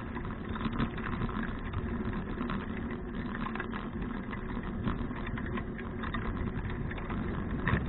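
Bicycle riding along, with wind rumbling on the action camera's microphone and tyre and frame noise, broken by frequent small rattles.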